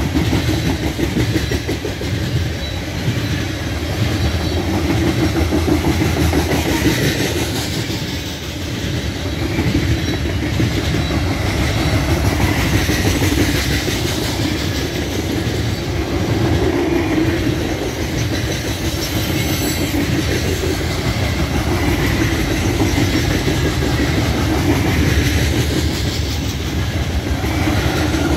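Loaded coal train's cars rolling past: a steady rumble of steel wheels on the rails with the clickety-clack of the wheels over the rail joints.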